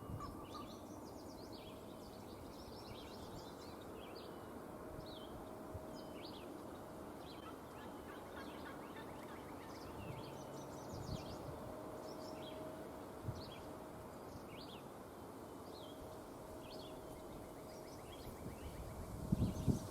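Outdoor spring ambience: many small songbirds chirping and singing over a steady background hiss.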